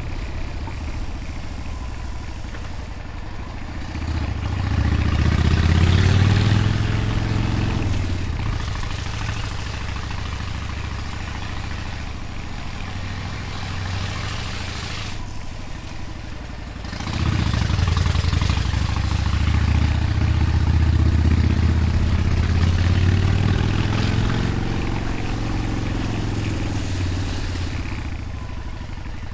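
Motorcycle engine running at speed, revving up and easing off twice: briefly a few seconds in, then for longer after the middle, with wind noise across the microphone.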